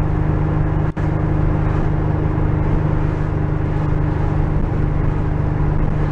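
Porsche 911 air-cooled flat-six running steadily while the car is driven, heard from inside the car, with no popping. The sound briefly drops out about a second in.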